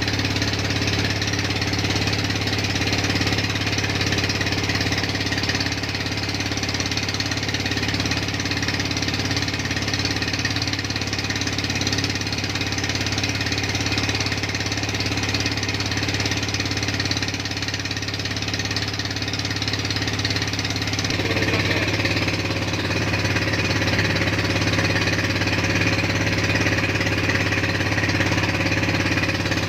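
A boat's engine running steadily, with a continuous low hum and a rapid knock. Its sound changes slightly about two-thirds of the way through.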